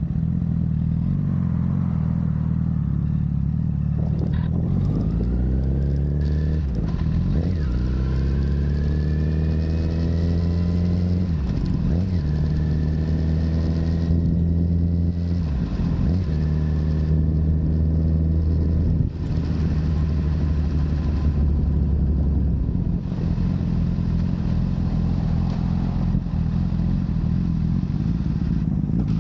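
Honda CBR1000RR's inline-four engine through a Yoshimura full exhaust, accelerating through several gears. Its pitch climbs and drops sharply at each upshift, then settles into a steady cruise near the end.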